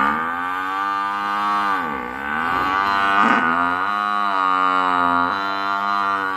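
Buffalo mooing: one long, drawn-out call of about six seconds whose pitch dips and wavers a few times before it stops.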